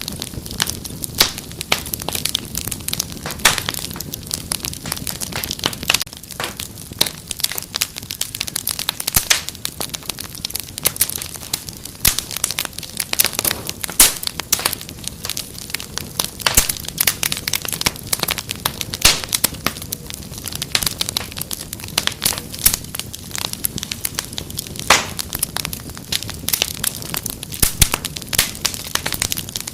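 Wood fire crackling in a fireplace: many irregular sharp pops and snaps over a steady low rustle.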